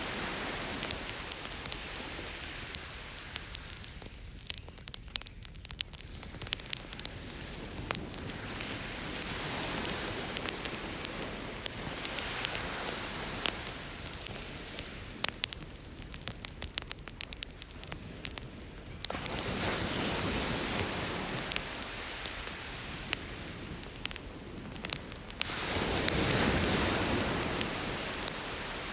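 Campfire crackling with frequent sharp pops, over ocean waves that swell and wash in every several seconds, then fade.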